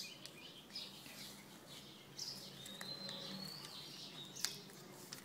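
Small birds chirping and twittering in short high notes, with one sharp click about four and a half seconds in.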